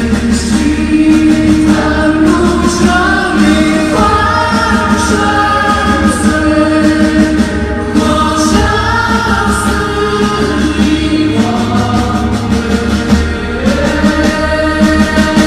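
Live pop-rock music with a choir-like wall of held, gliding vocal notes over a steady pulsing beat.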